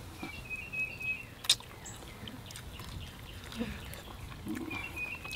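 A bird's short, rapid chattering trill, heard twice: near the start and again near the end. One sharp crack about a second and a half in, over a quiet outdoor background.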